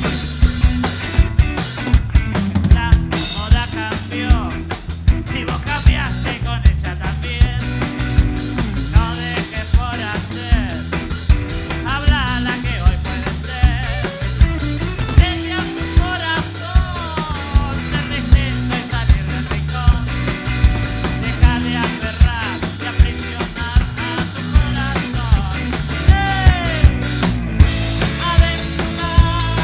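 A band playing an instrumental passage: a drum kit keeps a steady beat with bass drum and snare, under bass and sliding melodic lead lines.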